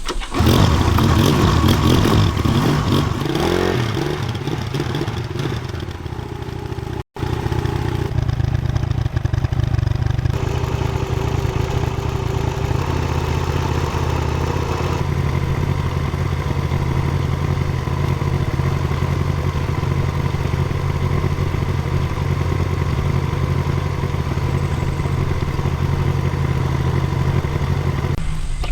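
Tractor engine running steadily, its pitch shifting a little in the first few seconds, with a brief break about seven seconds in.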